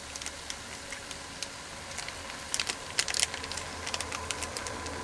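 Scattered light clicks and crinkles of small soy sauce packets being opened and squeezed out, busiest a couple of seconds in, over a steady low hum.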